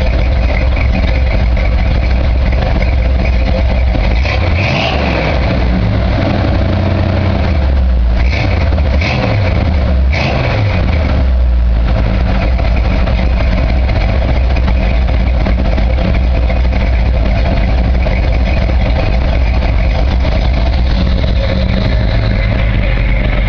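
1967 Chevy C-10's 350 small-block V8, bored .040 over with a .447-lift, 287-duration cam and Flowmaster dual exhaust, idling. The engine rises and falls in pitch about four to five seconds in and again between about eight and eleven seconds in, as from short throttle blips.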